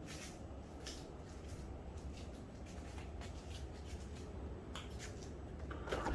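Light handling noises of household items: scattered soft clicks and rustles over a low steady hum, with a louder rustle near the end.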